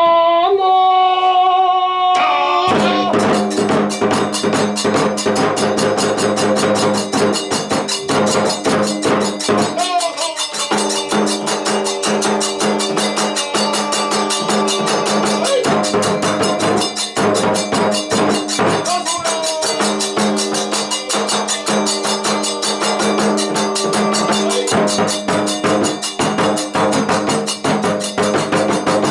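Kagura accompaniment music. A chanted voice holds a note, and about two seconds in the ensemble comes in: drums and metallic hand cymbals strike fast and steadily under a sustained melodic line.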